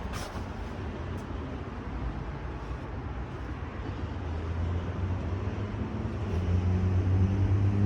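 A car's engine running, its low hum growing louder over the second half.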